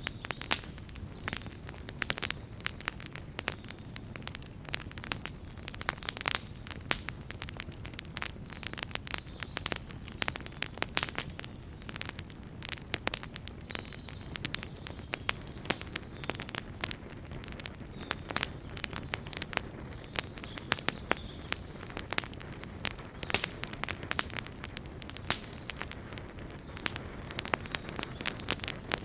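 Wood campfire crackling and popping, with irregular sharp snaps over a low steady rush of burning.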